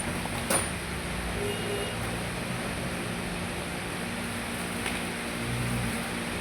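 Steady background hum of road traffic, with one sharp click about half a second in and a fainter click near five seconds.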